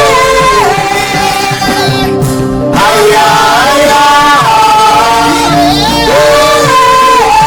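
Church worship team singing a slow gospel worship song with instrumental backing, long held notes stepping between pitches.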